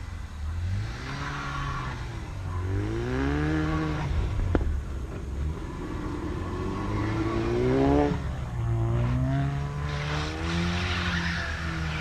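Ford Focus RS engine and exhaust accelerating hard: the pitch climbs, drops back and climbs again three times, as at gear changes. A single sharp crack comes about four and a half seconds in, as the revs fall.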